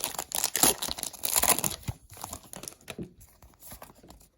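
Foil wrapper of a Pokémon card booster pack being torn open and crinkled: dense crackling for about two seconds, then sparser, fainter crinkles.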